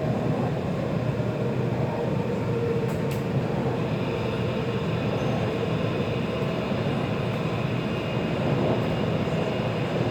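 Taipei Metro C341 subway train running, heard from inside the car as a steady rumble of wheels and running gear with a faint steady whine.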